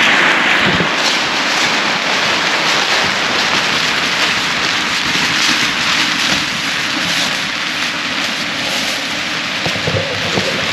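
Storm wind and rain: a loud, steady rushing noise that surges and eases in gusts.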